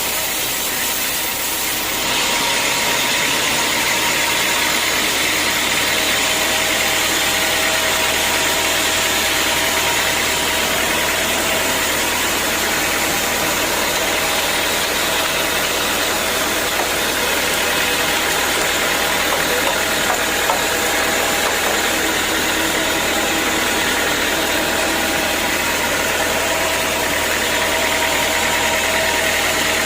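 Sawmill running with a steady mechanical noise that gets louder and brighter about two seconds in.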